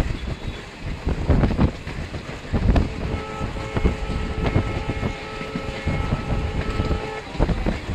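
Train running on the rails with irregular wheel knocks and rumble; about three seconds in, a train horn sounds one steady multi-tone note for about four seconds.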